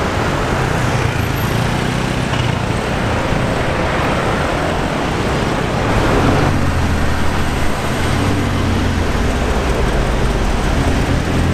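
Sports-car engines running at low speed in slow-moving city traffic, a steady low engine hum over road noise that grows a little louder about halfway through.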